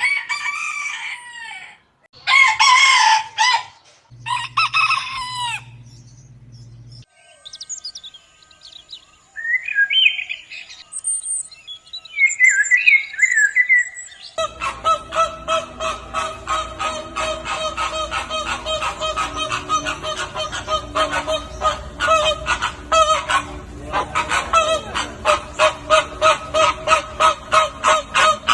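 Chickens: a rooster crowing three times in a row, then scattered chirps, then a long stretch of rapid repeated chirping and clucking.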